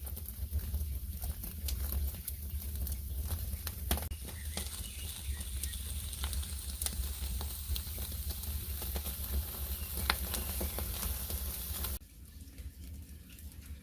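A cooking fire crackling and sizzling, with many sharp pops over a steady hiss; it cuts off suddenly near the end.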